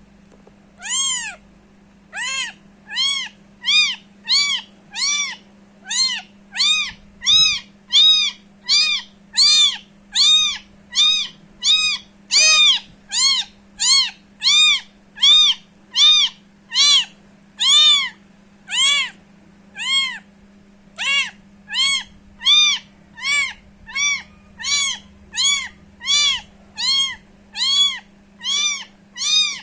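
13-day-old kitten meowing over and over: short, high cries that rise and fall in pitch, a little more than one a second.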